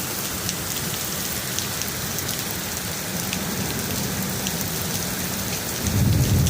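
Hail coming down and striking the ground: a steady hiss with many scattered sharp ticks of hailstones hitting. A low rumble swells in near the end.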